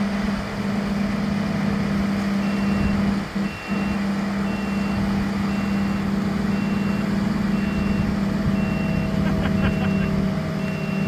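Heavy truck engine running steadily. From about two seconds in, a high-pitched reversing alarm beeps about once a second.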